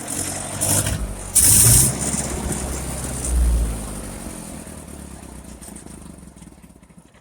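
1958 Ford 851 tractor engine running, with a loud rush of noise about a second and a half in, then the engine sound gradually fading away toward the end.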